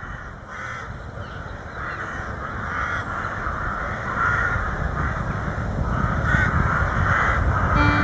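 Repeated harsh bird calls, about eight of them, over a low rumble that grows steadily louder. Fiddle music comes in near the end.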